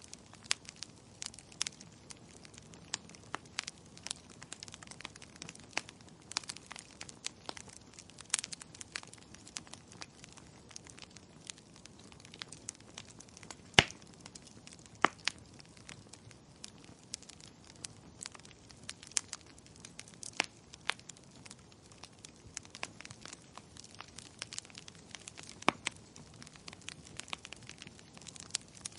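Wood fire crackling in a fireplace: irregular sharp pops and snaps over a soft low hiss, the loudest pop about halfway through.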